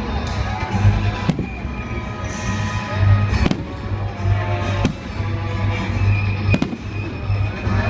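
Aerial fireworks bursting: four sharp bangs a second or two apart, over music playing throughout.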